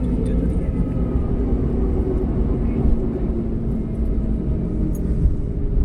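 Steady low rumble of a moving vehicle, with a faint, even engine hum.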